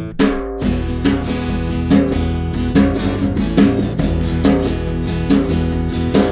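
Acoustic guitar strumming a steady, rhythmic instrumental intro of an indie/surf-rock song, with accented strums a little under a second apart. A short break about half a second in marks the start of a new phrase.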